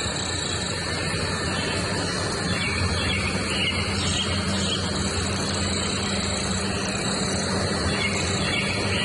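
Steady outdoor background noise with a low hum and a constant high insect-like drone, and a few faint bird chirps now and then.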